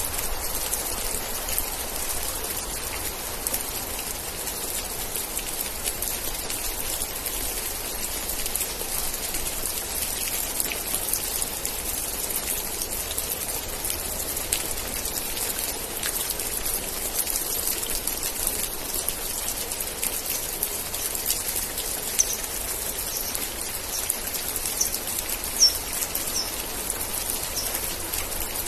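Steady rain falling, a dense patter of raindrops, with a few sharper high-pitched ticks standing out near the end.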